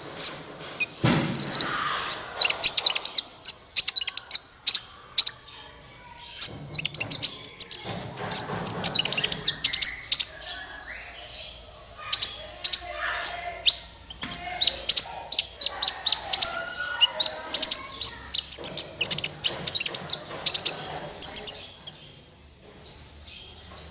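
Song of a sunbird known in Indonesia as kolibri ninja, played as a lure call: a rapid run of sharp, high chirps and short trills with only brief gaps.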